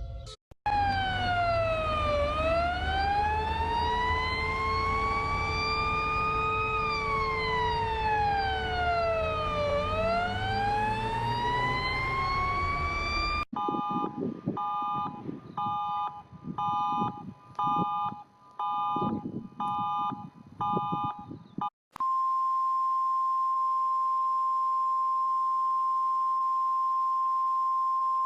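Emergency alert alarm tones in three parts. First comes a slow siren wail that falls, rises and falls again over several seconds, with a steady hum beneath it. About halfway through it gives way to a chord of beeps pulsing about one and a half times a second over a rumble. The last part is a single steady high tone.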